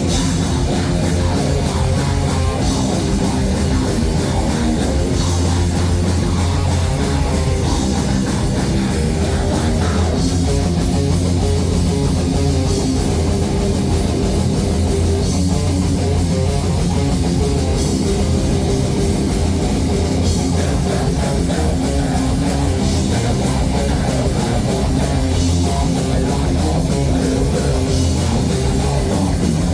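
Live band playing loud heavy rock with electric guitar, bass guitar and drum kit, steady throughout with a strong bass line.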